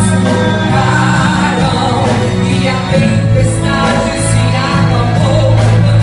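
Gospel music: a woman singing a Portuguese worship song over instrumental accompaniment with sustained bass notes.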